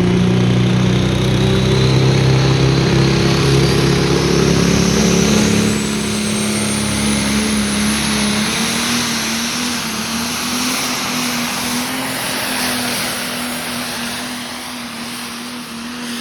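Diesel pulling tractor running hard, pulling the weight sled, with a high whine that climbs steadily in pitch through the first half. About six seconds in, the deep engine note drops away and the sound continues more quietly as a steady hum.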